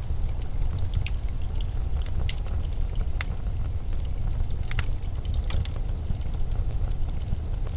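Steady low blizzard wind noise, with faint sharp clicks and crackles scattered above it.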